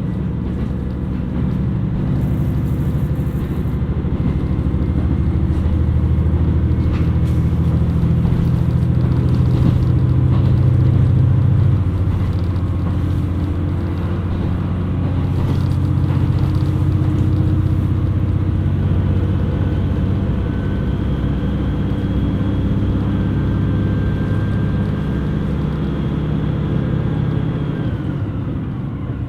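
KiHa 127 series diesel railcar running, its underfloor diesel engine droning as it pulls, the note climbing and strengthening until it drops back about twelve seconds in, then running on steadily.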